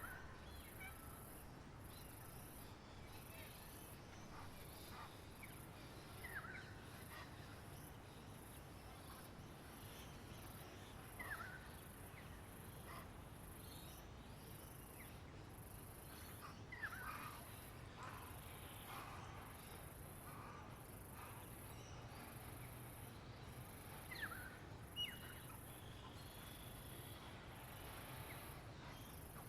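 Faint outdoor ambience: an insect, cricket-like, chirping in high pulses about once a second throughout, and a bird giving a short, sharp, falling call every five to seven seconds.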